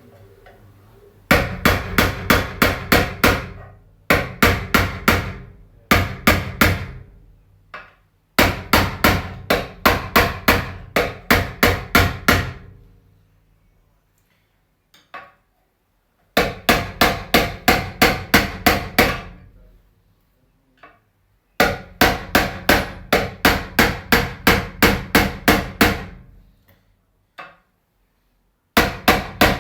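Hammer blows on a metal punch driving a part into a clutch housing that has no press to seat it. The blows come in quick runs of several a second, each ringing, with short pauses between runs. The part is a tight, unlubricated fit that is going in only just.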